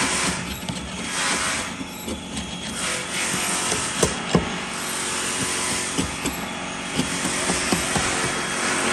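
A power tool cutting wood, its noise swelling and easing in passes, with a couple of sharp knocks about four seconds in.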